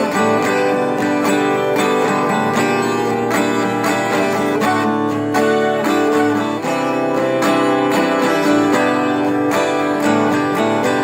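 Guitar instrumental strumming and picking a chord progression built on D, C and G at a lively, steady pace.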